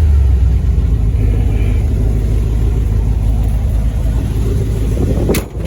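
Just-started 350 small-block Chevy V8 with a mild cam and a new Holley carburetor, running: louder for the first half-second, then settling into a steady idle. A brief sharp click just before the end.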